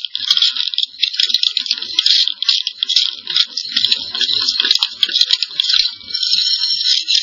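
Inspection camera and its push rods rattling and scraping inside a fireplace chimney liner, with many irregular clicks over a steady high-pitched hiss.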